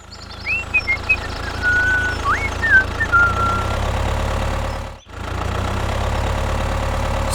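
An engine idling steadily with a low rumble, with a few short whistling chirps over it in the first four seconds. The rumble cuts out briefly about five seconds in and then runs on again.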